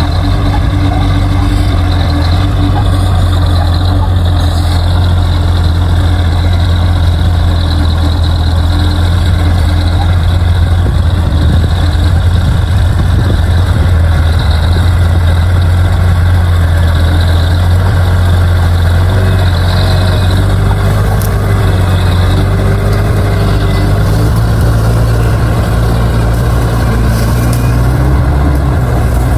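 Bulldozer's diesel engine running steadily, its note shifting slightly higher near the end.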